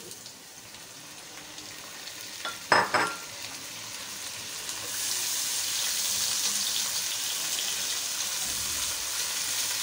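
Sliced tomatoes frying in hot oil with browned onions in a large pot, a steady sizzle that grows louder about five seconds in as they are stirred with a spatula. A couple of sharp utensil knocks against the pot a little under three seconds in.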